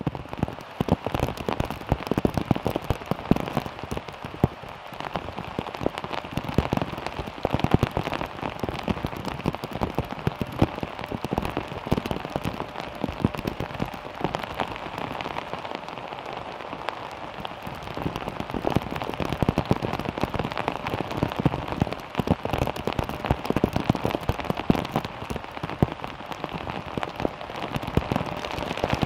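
Heavy rain, with drops falling from the trees hitting a small car's body: a dense, steady patter with many sharp individual drop hits on top.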